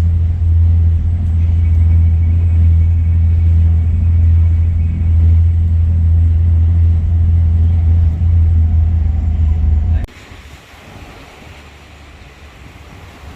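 Steady low engine drone with a constant pitch. About ten seconds in it cuts off abruptly, giving way to much quieter wind and surf noise.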